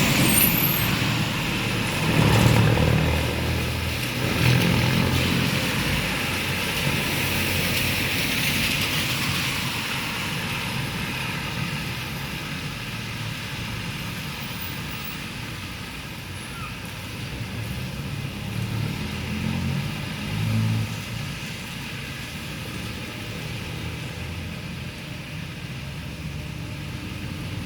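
Rain falling steadily, with cars driving past on the wet street, the passing traffic swelling a few seconds in and again about two-thirds of the way through.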